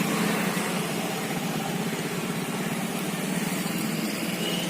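A small vehicle engine running steadily, with road noise.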